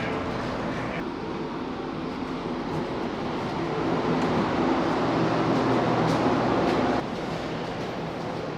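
Passenger train running, heard from inside the carriage: a steady rumble of motors and wheels on rails that grows louder for a few seconds before dropping back suddenly.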